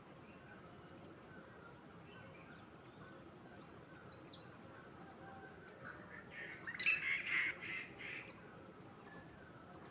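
Wild birds calling: a brief high chirp about four seconds in, then a louder run of rapid chirps about six seconds in lasting some two seconds, over a faint steady background hiss.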